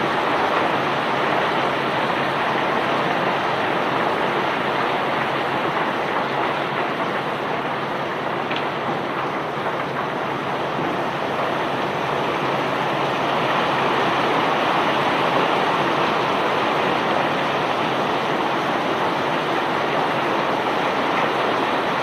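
Self-unloading barge discharging iron ore and river rock: a steady rushing of bulk rock moving along and pouring off the unloading conveyor, with no let-up.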